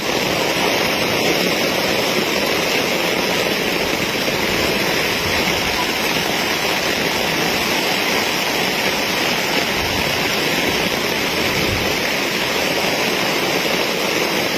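Steady, even rush of water, as of heavy rain or floodwater, with no change throughout.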